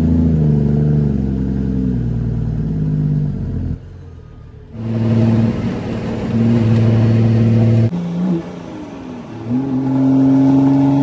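Straight-piped CAT C13 diesel of a Kenworth W900B dump truck pulling under load through the gears. The engine note holds steady, then drops off sharply a little under four seconds in and again near eight seconds as a gear is shifted, and rises again as it pulls in the next gear.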